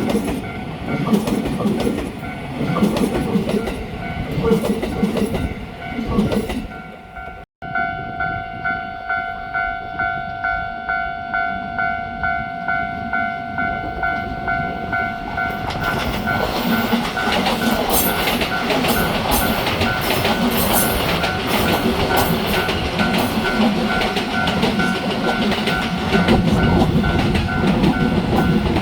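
A train rumbling over a level crossing, its wheels clattering on the rails, that cuts off suddenly about a quarter of the way in. The crossing's warning bell then rings in steady pulses about twice a second. About halfway through, another train starts passing over the crossing, loud, with the bell still ringing under it.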